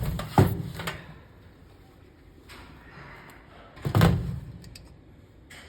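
Two dull thumps, one just after the start and a louder one about four seconds in, over a faint background.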